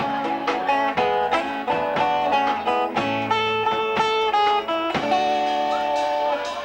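Guitar solo over a live country band's backing, single notes and short runs picked over a steady beat, during an instrumental break with no singing.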